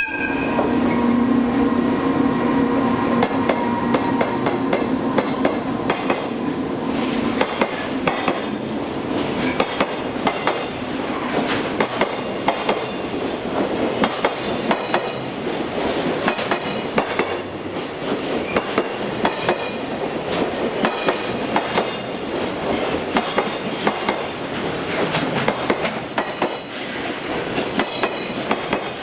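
Freight train's container wagons rolling past at speed, the wheels clacking over rail joints in a continuous fast rhythm of clicks. A steady hum sounds with it for about the first seven seconds, then fades.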